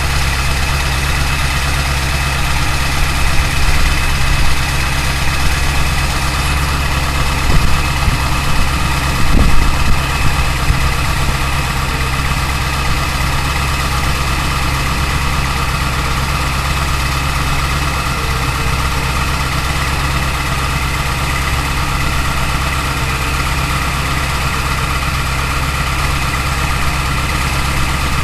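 A 2002 Ford F250's 7.3L Power Stroke V8 turbo-diesel idling steadily shortly after a cold start at 22°F on summer fuel. It swells slightly a few times in the first ten seconds.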